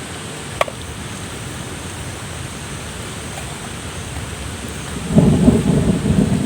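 Steady drizzle falling, then about five seconds in a loud, low roll of thunder sets in and keeps rumbling.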